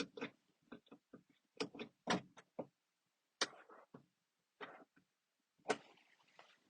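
Overhead map light switches being clicked on and off: a dozen or so short, sharp clicks at irregular spacing, some in quick pairs.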